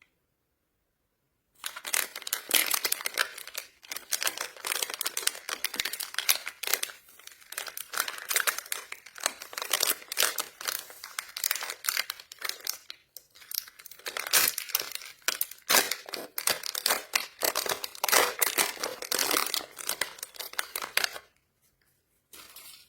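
Plastic candy wrapper crinkled and torn open by hand: dense crackling starting about a second and a half in and running on with a few short breaks, stopping shortly before the end.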